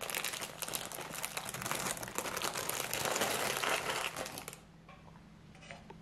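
Thin plastic wrapper of packaged French toasted bread slices crinkling as it is handled, a dense crackle that stops about four and a half seconds in.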